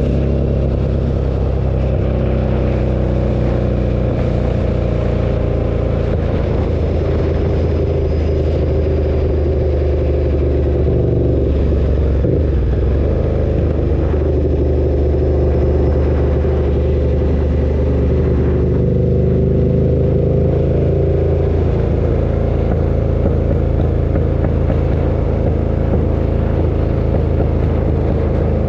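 KTM 1290 Super Duke's V-twin engine running steadily under way, its pitch rising and falling gently with the throttle.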